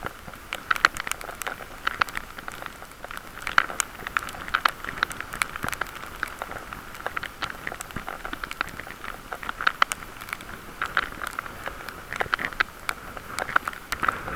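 Irregular crackling and ticking over a steady hiss, heard through a camera sealed in a waterproof case on a moving bicycle: the muffled, poor-quality sound of the enclosed microphone.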